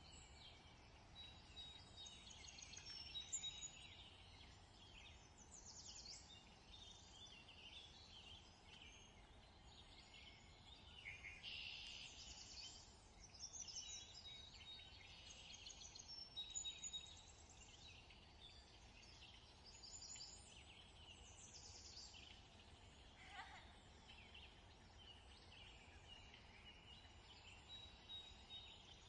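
Faint birdsong: many small birds chirping, trilling and whistling in quick, overlapping calls, over a low steady hum.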